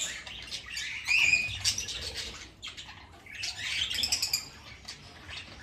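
Budgies chirping and chattering in short high calls, in two spells: one around the first second and one about four seconds in.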